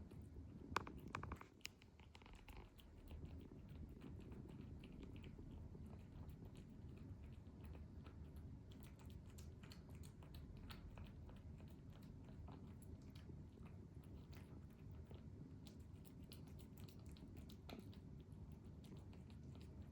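A cat eating wet food fast: faint, quick smacking and chewing clicks, with one sharper click about a second in.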